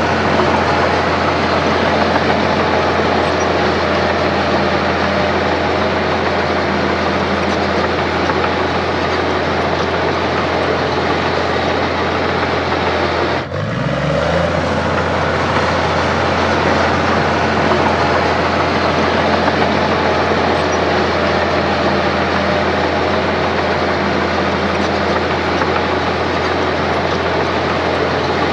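Heavy diesel engine of earthmoving machinery running steadily with a deep drone, with a brief break about halfway through.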